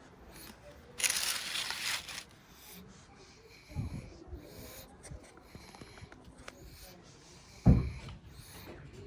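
A sleeping pug breathing noisily through its nose: a hissing breath about a second in, then short low snorts about four seconds in and near the end, the last the loudest.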